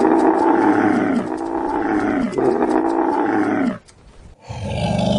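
A large animal calling loudly: three long calls in a row, each falling in pitch, then a short pause before another low call begins near the end.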